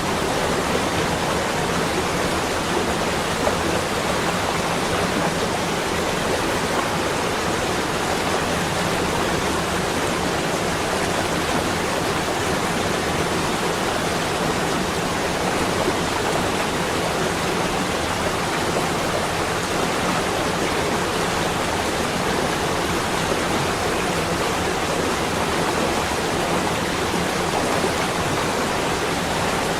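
Steady, even rushing noise, unbroken and unchanging, with no separate drops, gusts or knocks standing out.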